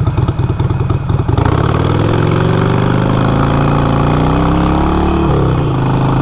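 Harley-Davidson Iron 883's air-cooled V-twin loping with an uneven pulsing beat, then revving up as the bike accelerates hard. The pitch climbs steadily for about four seconds, drops sharply at an upshift, and settles into a steady run.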